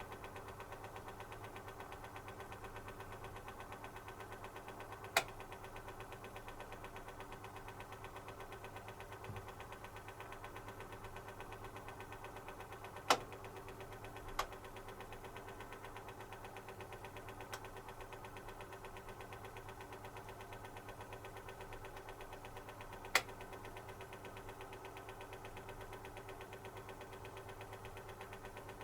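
Zanussi FC1000 compact washing machine running early in its wash program: a steady mechanical hum with a fast even ripple, broken by a few sharp clicks at irregular moments.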